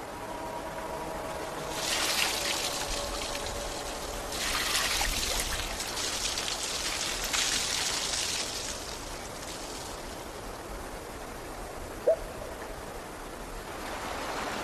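Water trickling and running, in swells that grow louder and fade again. A few faint held music tones die away at the start, and there is one brief sharp sound about twelve seconds in.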